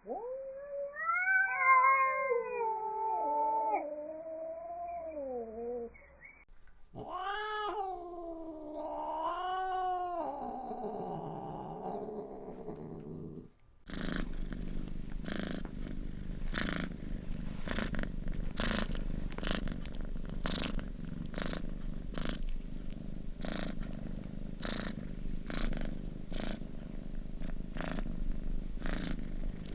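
Domestic cat yowling: two long, drawn-out calls that rise and fall in pitch. About halfway through, these give way to close-up purring that pulses steadily with each breath.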